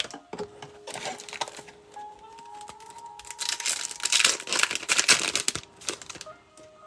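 Foil wrapper of an Optic football card pack crinkling as it is handled and torn open. The crinkling is heaviest in a dense stretch from about three to five and a half seconds in.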